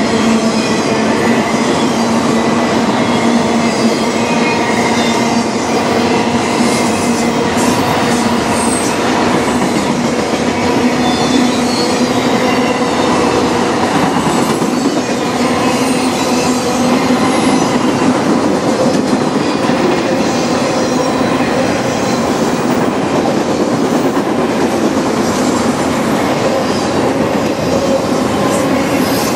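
Freight train's autorack cars rolling past at close range: steel wheels clattering over the rails, with a steady metallic squeal from the wheels.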